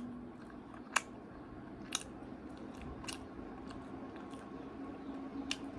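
A person chewing a bite of fried doughnut with mouth closed: soft chewing with a few sharp mouth clicks about a second apart, over a faint steady hum.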